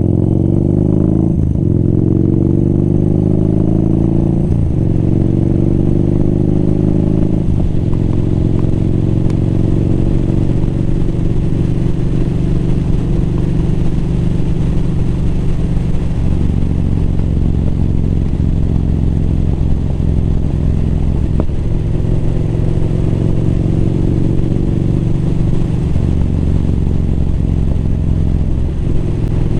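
Motorcycle engine accelerating through the gears: the pitch climbs and drops back at three upshifts in the first eight seconds or so, then holds steady at a cruising speed.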